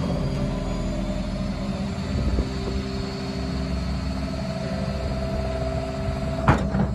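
Beko washing machine running hard on a spin: a steady motor whine over a low rumble of the drum. About six and a half seconds in there is one sharp bang.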